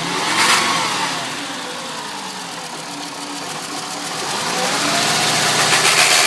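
2005 VW Jetta's 2.5-litre five-cylinder engine running with a misfire. It is revved briefly about half a second in, settles, then the revs climb slowly and drop off suddenly at the end.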